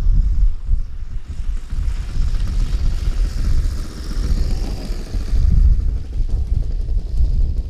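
Saito FG-50 engine of a model aerobatic plane running, faint and rising a little around the middle. Heavy wind rumble on the microphone is the loudest sound.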